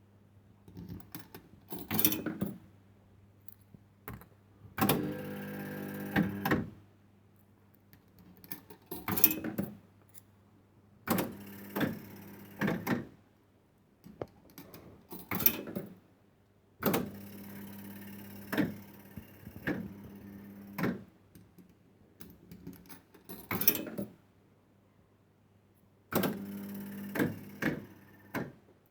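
A 1970s penny-play fruit machine being played: its reels whir round in repeated bursts, some brief and some lasting a few seconds, each ending in sharp mechanical clunks and clicks. A steady low hum runs underneath.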